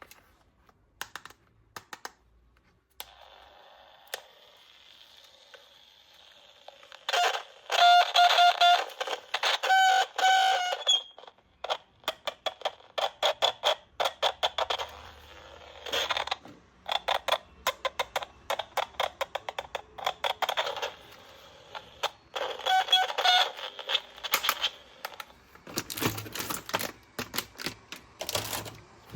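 Hard plastic toy gun parts clicking and rattling in rapid runs as they are handled. Twice there is a burst of pitched electronic toy sound among the clicks.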